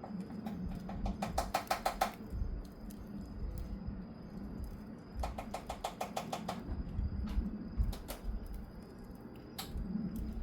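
Wood fire crackling, with scattered single sharp pops. Twice it gives a short fast rattle of clicks, about ten a second, lasting around a second each time.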